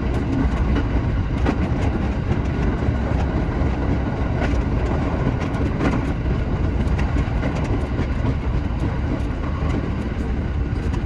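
Shinano Railway SR1 series electric train running along the line: a steady low rumble with scattered short clicks from the wheels on the track.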